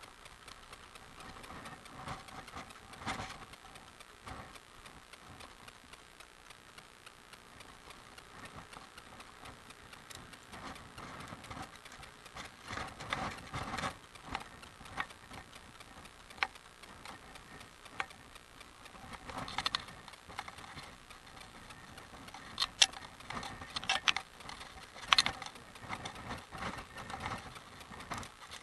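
Bicycle freewheel ticking rapidly as the bike coasts downhill, with occasional sharp clicks and knocks, loudest in a cluster near the end.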